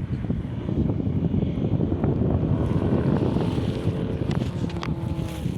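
Wind buffeting the microphone, a rough, steady low rumble.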